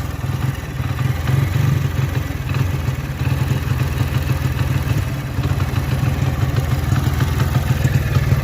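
Hero Splendor Plus single-cylinder four-stroke engine idling steadily with a rapid, even pulse, its tappet clearance freshly set to cure a tappet ticking noise.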